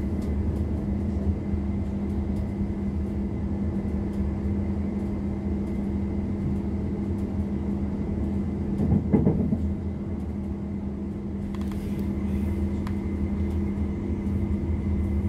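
Class 444 Desiro electric multiple unit running, heard from inside the passenger saloon: a steady rumble of wheels on the track with a steady hum over it. A brief louder surge comes about nine seconds in.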